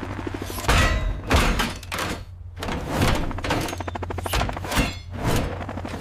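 Animated sound effects: a series of heavy thunks and impacts, about eight over a few seconds, over a low steady background of music.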